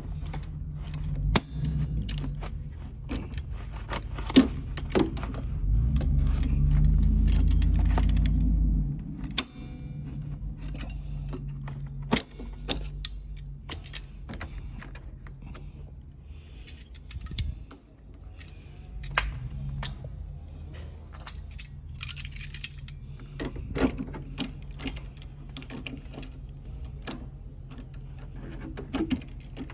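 Metal tools and fittings clinking and rattling as they are handled, with many sharp clicks over a steady low hum. A louder low rumble runs for a few seconds about six seconds in.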